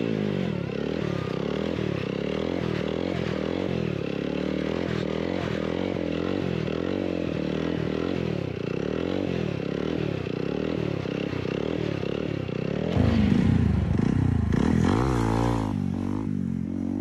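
Motorcycle engine being revved up and down over and over, its pitch rising and falling about once a second, as the throttle is worked for wheelie practice. It gets louder and fuller about thirteen seconds in.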